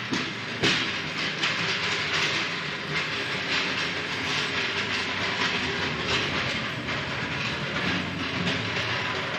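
Steel floor jack being rolled across a concrete shop floor, its wheels and frame keeping up a steady, rattling clatter.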